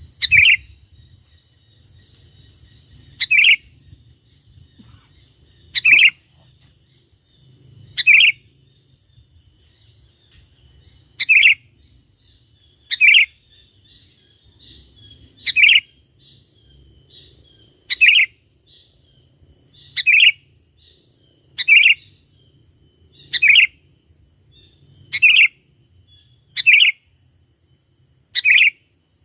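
Sooty-headed bulbul (kutilang) giving a short, loud call over and over, about fourteen times, roughly every two seconds.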